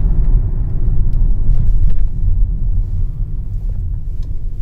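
Low rumble of a Kia Sportage heard inside the cabin as it slows to a stop, easing off over the last couple of seconds.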